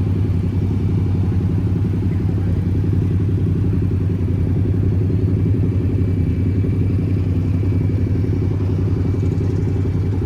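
A car engine idling steadily, a loud low-pitched sound that keeps an even pitch throughout.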